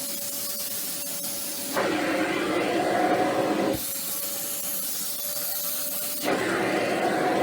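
Bosch BGC05AAA1 bagless cylinder vacuum cleaner running. Its rushing air noise switches suddenly every two seconds or so between a hissy rush with a faint steady whine and a duller, lower rush.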